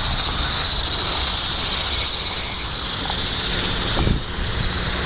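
A chorus of annual cicadas buzzing steadily, a continuous high-pitched drone, over a low rumble. There is a brief thump about four seconds in.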